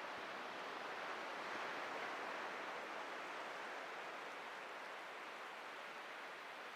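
Ocean surf washing on a beach: a steady rush of wave noise that swells a second or two in and then slowly eases off.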